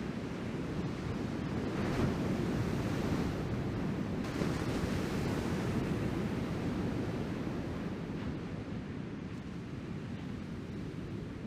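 Ocean surf from a typhoon swell breaking and washing ashore, with wind on the microphone. The wash swells about two seconds in and eases off after about eight seconds.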